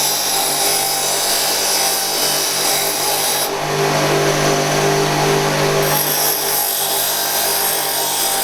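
Angle grinder running steadily against steel, grinding down metal on the bike's frame and engine mounts.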